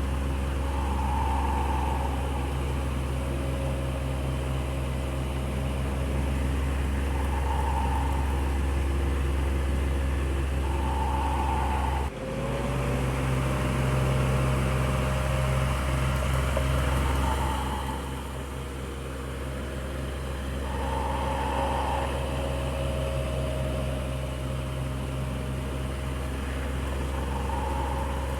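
Electric fan running steadily, a continuous motor hum with airflow noise. A brief dropout about twelve seconds in, after which the hum's pitch shifts slightly.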